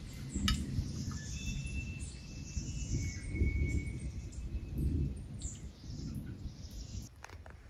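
Forest birds calling with thin, held whistled notes over an uneven low rumble, with a single sharp click about half a second in.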